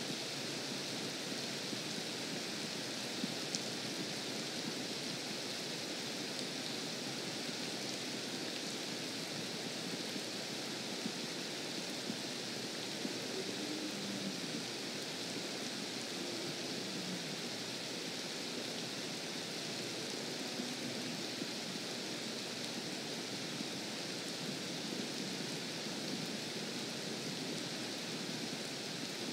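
Steady rain falling on a pond's surface, an even hiss that holds level throughout.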